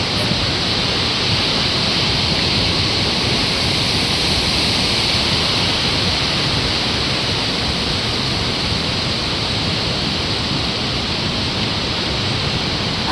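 Fast-flowing glacier stream rushing, a steady, even sound of water with no change throughout.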